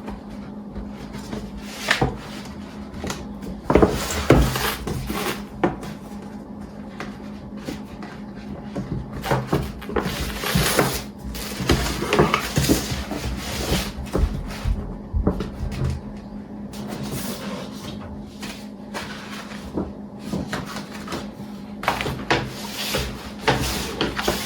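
Household handling noises: irregular knocks, clatters and rubbing, like cupboard doors and objects being moved about, over a steady low hum.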